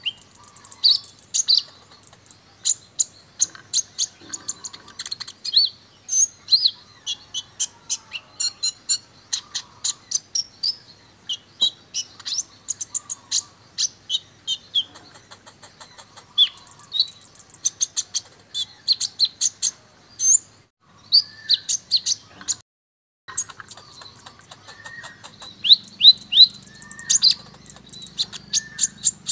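Kolibri ninja sunbird singing a fast, busy song of high chirps, rapid trill 'shots' and varied filler phrases, played as a bird-training lure recording. There is a brief total dropout about three-quarters of the way through.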